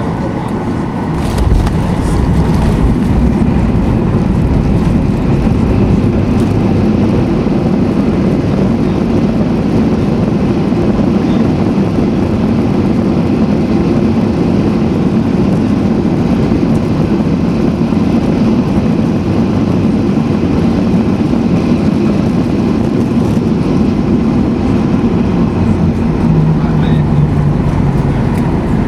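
Steady engine and airflow noise heard inside the cabin of a Boeing 737-800 jet airliner, stepping up slightly about a second and a half in and then holding even.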